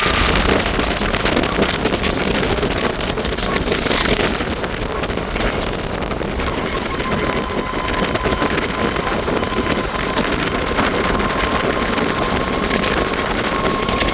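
Safari vehicle driving along a jungle track, its engine and road noise steady, with wind buffeting the microphone.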